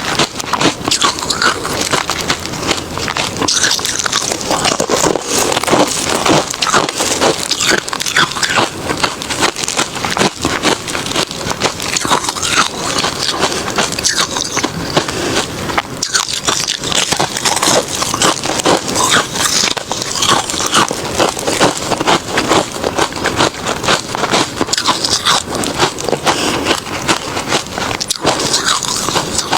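Close-up crunching of refrozen crushed ice being bitten and chewed, a continuous rapid crackle of many small cracks with no real pauses.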